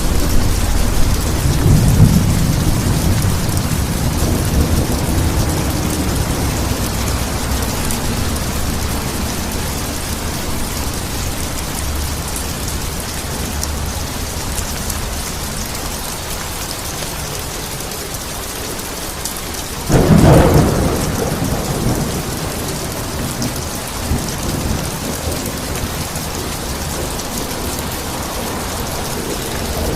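Steady heavy rain falling, with rolling thunder rumbling over the first several seconds and a sharp, loud thunderclap about twenty seconds in that rumbles away over a couple of seconds.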